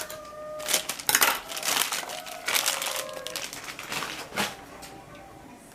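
Packaging crinkling and rustling as a blind-box figure is unwrapped from its plastic bag and cardboard box, in irregular bursts that thin out toward the end.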